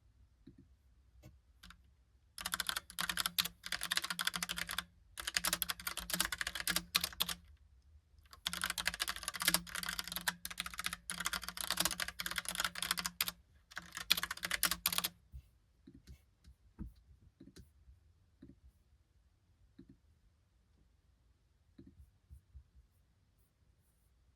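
Logitech Pop Keys mechanical keyboard being typed on: fast runs of clicky keystrokes with brief pauses between them for about twelve seconds, then only a few scattered single key presses.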